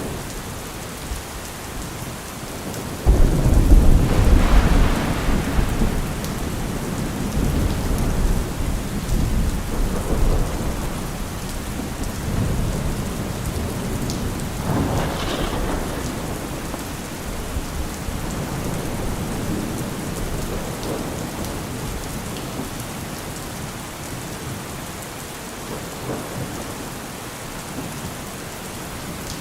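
Steady heavy rain with thunder: a loud thunderclap about three seconds in rolls on and fades over several seconds, and a second, weaker roll of thunder comes about halfway through.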